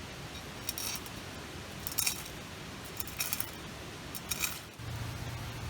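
Four short, light metallic snips from a metal kitchen tool, spaced a little over a second apart. Near the end a steady low hum comes in suddenly.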